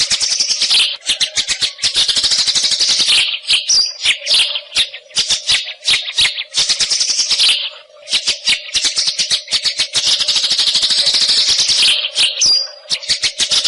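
White-rumped shama song: rapid runs of harsh, rattling chatter and clicks, broken by a couple of brief high whistles.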